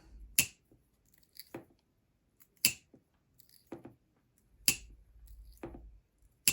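Blade of a Case slimline trapper pocketknife snapping open and shut against its backspring: sharp clicks about once a second, loud ones alternating with softer ones. The sound of a freshly oiled joint with good snap and walk and talk.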